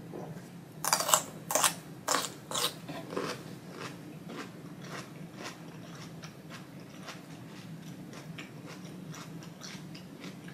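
A person chewing food close to the microphone. About a second in come five or six loud, crunchy chews in quick succession, then softer, steady chewing about twice a second.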